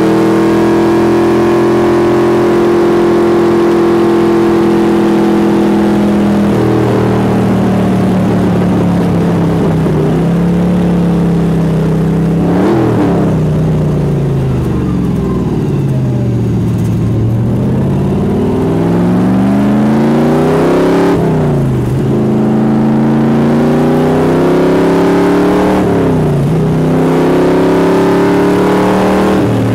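Race car's V8 engine heard on board at full throttle, pitch climbing through the gears with a sharp break at each shift. About halfway the note drops and falls for a few seconds as the car slows for a corner, then it climbs again through two more upshifts.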